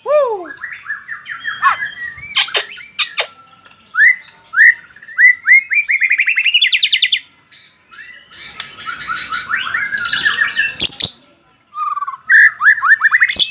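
White-rumped shama (Bahorok murai batu) singing a varied song: clear whistled glides, harsh rasping notes and sharp clicks, and a fast run of short notes climbing steadily in pitch around the middle. Phrases come in quick succession with two brief pauses.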